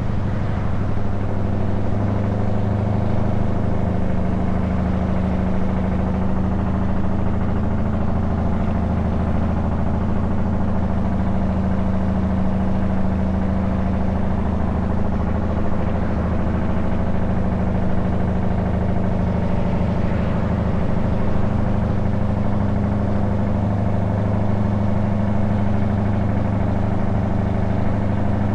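Scania S truck's diesel engine with open exhaust pipes, running at a steady low drone while cruising, its pitch drifting only slightly.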